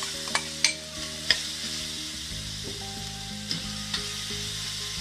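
Grated carrot sizzling in hot ghee in a stainless steel pan, stirred with a metal spatula that clicks and scrapes against the pan several times.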